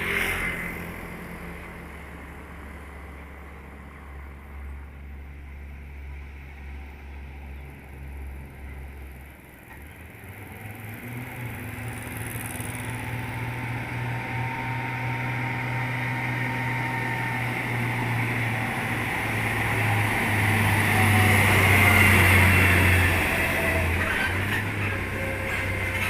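Heavy truck's diesel engine running, a low steady drone that grows louder from about ten seconds in and is loudest a little past twenty seconds before easing off.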